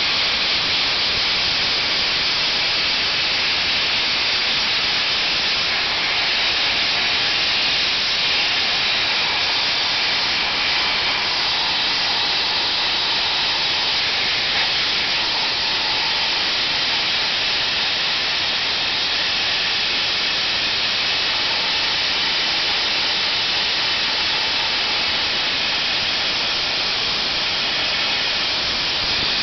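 Soda blaster's nozzle spraying baking soda media on compressed air: a loud, steady hiss that keeps going without a break.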